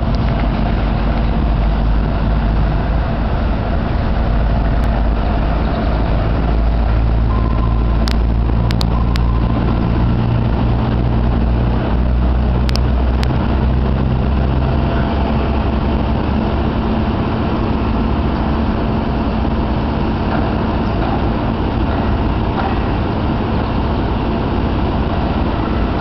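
A motor running steadily with a low rumble and hum. A few sharp clicks come about a third of the way in and again about halfway.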